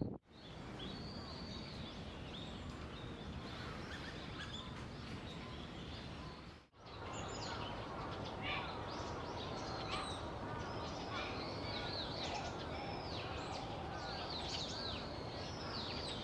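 Small songbirds chirping and calling over steady outdoor background noise. A brief gap comes a little under 7 seconds in, and after it the chirping is busier.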